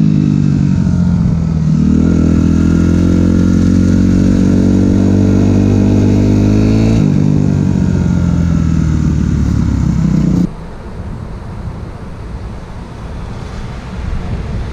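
Suzuki RM-Z250 four-stroke single-cylinder motocross bike with an open Akrapovič exhaust, running loud at high revs. The pitch climbs about two seconds in and steps down about seven seconds in. The engine sound cuts off abruptly about ten and a half seconds in, leaving a quieter rumble.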